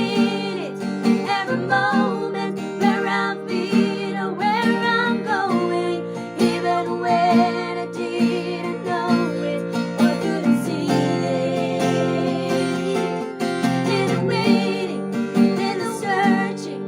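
Music: strummed acoustic guitar chords under a wavering melody line with vibrato.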